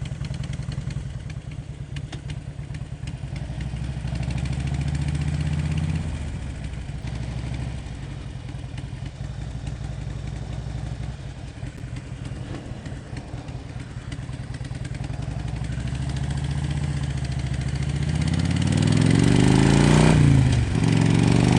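Harley-Davidson Road King's V-twin engine running while riding. It rises in pitch and level near the end as the bike accelerates, with a brief drop just before the end.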